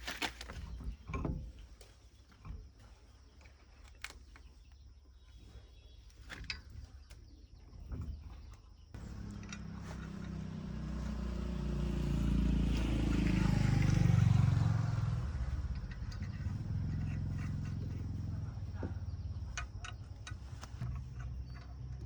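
Scattered light knocks, then about nine seconds in an engine starts running with a steady low drone. It swells over the next few seconds, then settles to a steadier level.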